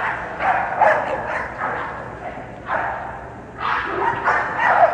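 A dog barking over and over in quick runs, about two or three barks a second with short pauses between the runs.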